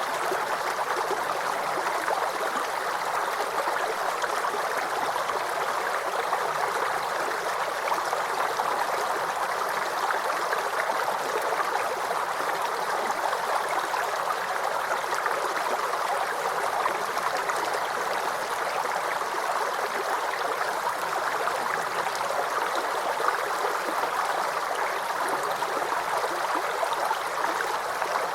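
Small stream of water flowing and babbling steadily over stones, a continuous rushing gurgle with no pauses.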